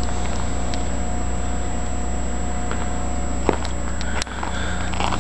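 An engine running steadily nearby, a low even hum, with a few sharp clicks over it and a brief dip in the sound about four seconds in.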